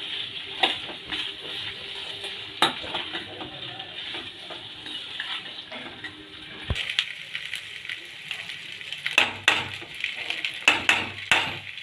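Chicken pieces frying with onions and pepper masala in a pan, sizzling steadily, while a utensil stirs and scrapes against the metal with sharp clinks. The clinks come loudest and closest together near the end.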